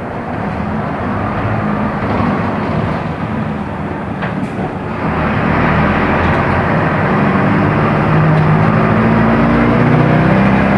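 Mercedes-Benz OF-1418 bus's diesel engine running under way; it gets louder about halfway through and its pitch climbs over the last few seconds as the bus accelerates. A single click sounds about four seconds in.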